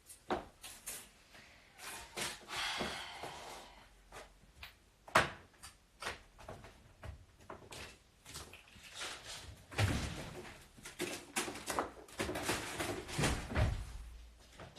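Knocks and clatter of household things being handled, with one loud slam about five seconds in and heavier thuds near the end.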